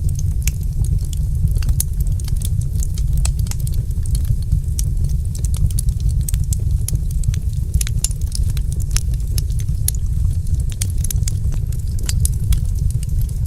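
Wood fire crackling in a fireplace: many small irregular pops and snaps over a steady low rumble.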